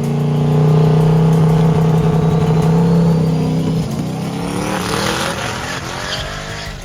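Race car engine running hard at high revs, holding a steady note for about four seconds, then dropping in pitch and climbing again.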